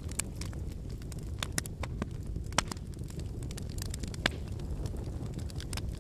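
Wood fire burning with a steady low rumble of flames and frequent sharp crackles and pops of burning firewood, two of them louder, about two and a half and four seconds in.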